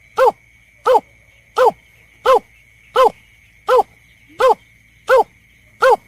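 A bird lure recording of the berkik (belkek) call: short harsh call notes repeated nine times at an even pace, about one every 0.7 seconds. A faint steady high tone runs beneath the calls.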